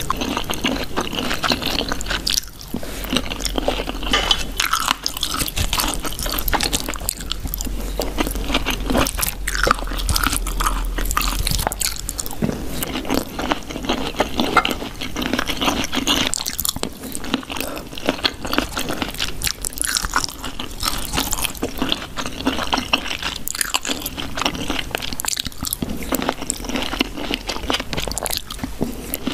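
Close-miked eating: chewing and crunching of cheesy sweet corn, with bites and wet mouth sounds throughout.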